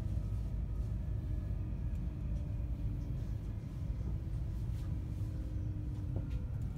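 Passenger train running, heard from inside the carriage: a steady low rumble of wheels on the track with a faint steady whine and a few light clicks.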